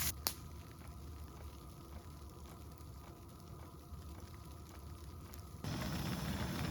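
Grilled cheese sandwiches sizzling faintly in a pan on a propane camp stove, with a sharp click just after the start. About five and a half seconds in, the sizzling suddenly gets louder.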